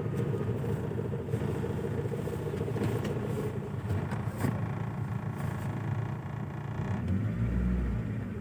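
Car engine running, heard from inside the cabin as a steady hum, with a deep low rumble near the end.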